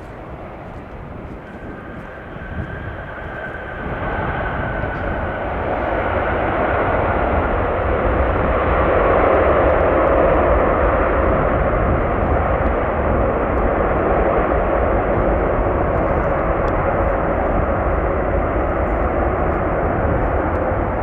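Jet airliner engines, a loud rushing roar that builds over several seconds and then holds steady.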